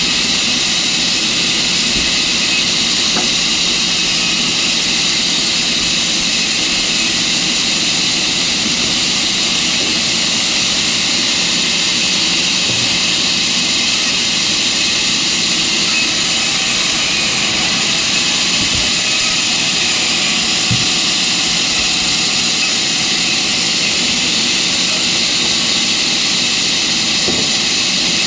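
Sawmill machinery running steadily: a constant loud whirring noise with a strong hiss, unchanging throughout.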